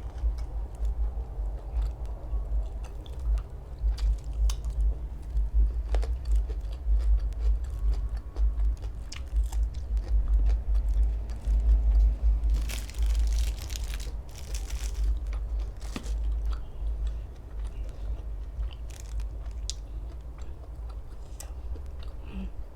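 Close-miked chewing and crunching of food, with many short crisp clicks and a louder, denser crunchy stretch about thirteen seconds in.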